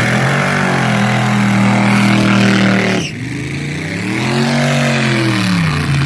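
Front-engine dragster's engine held at steady revs for about three seconds, then the throttle snaps shut. About a second later a second blip of revs rises and falls before it settles lower.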